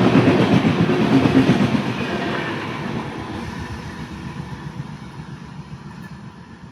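A passing train: its wheels rumble and clatter along the track. The sound grows steadily fainter from about two seconds in as the train moves away.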